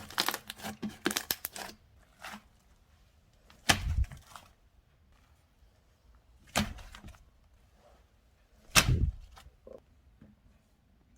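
Slime being handled: a quick run of small crackling clicks, then three separate sharp slaps about three seconds apart, each with a low thud.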